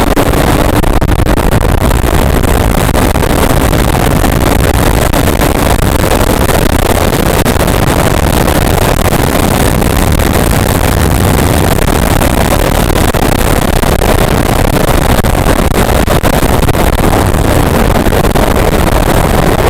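Motorcycle running at high speed, recorded on the bike: a continuous loud roar of engine and rushing wind on the microphone.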